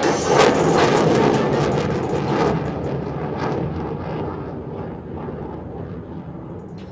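HAL Tejas fighter jet's F404 turbofan engine rushing and crackling as it flies past, loudest in the first couple of seconds and then fading away as it climbs off.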